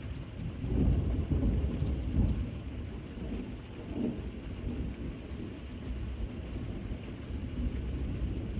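Thunder rumbling during steady rain: a deep roll of thunder swells about a second in and dies away over the next two seconds, with a smaller rumble near the middle, over an even hiss of rainfall.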